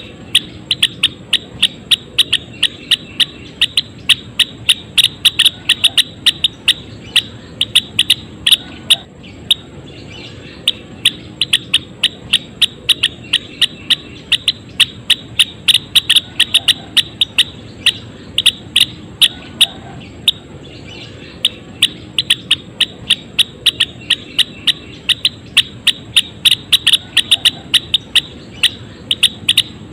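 Gelatik wingko Jawa finch calling in a rapid, continuous run of short, sharp chip notes, about three a second, with two brief breaks, roughly a third and two thirds of the way through.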